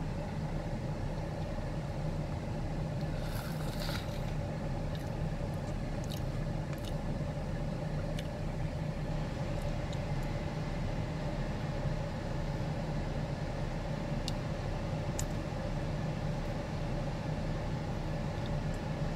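Steady hum inside a car with its engine idling, heard from the cabin, with a few faint clicks and a brief rustle about three and a half seconds in.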